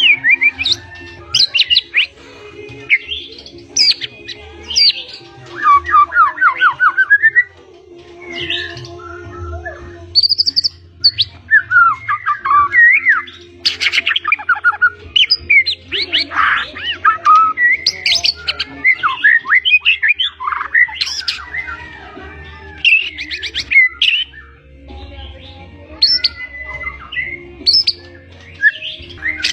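White-rumped shama (murai batu) singing a long, varied song packed with mimicked phrases (isian): rapid trills, whistled upward and downward sweeps and harsh chattering notes, one burst after another with short pauses.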